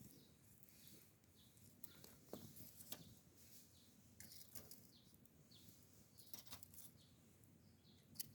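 Faint wood campfire crackling: scattered small pops and clicks over a low hiss.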